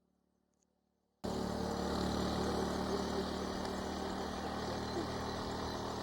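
Near silence, then a little over a second in the sound cuts in abruptly: a vehicle engine idling steadily under outdoor background noise.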